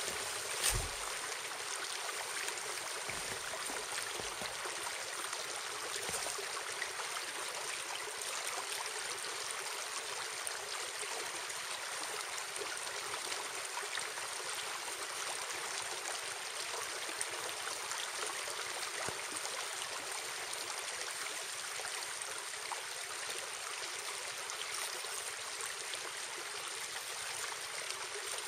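Steady rush of a running stream, with one short knock about a second in.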